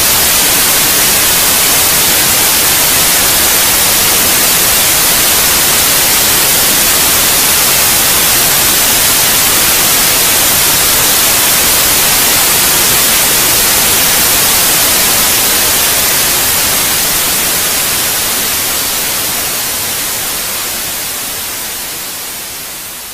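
Steady, loud white-noise hiss for lulling a baby to sleep, which begins to fade out about two-thirds of the way in.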